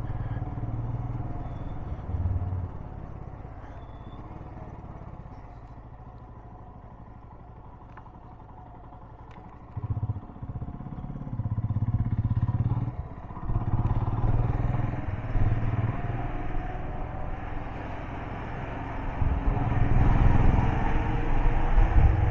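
Motorcycle engine running, quieter for the first several seconds, then louder and surging from about ten seconds in as the bike is ridden on.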